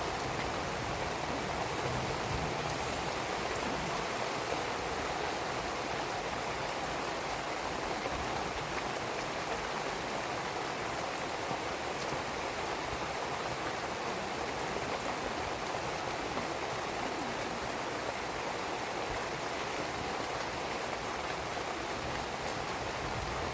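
Steady rain falling, with a few faint pops from a burning wood fire.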